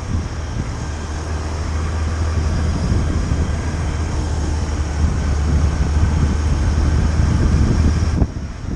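Motorcycle engine running steadily under wind noise on the microphone while riding. The sound drops off abruptly near the end.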